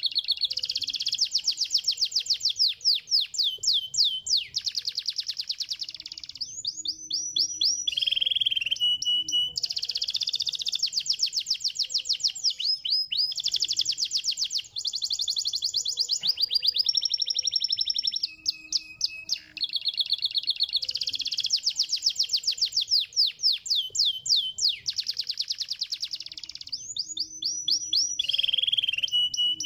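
Domestic canary singing a continuous, high song of rapid trills, each fast-repeated phrase lasting a second or two before switching to a different one.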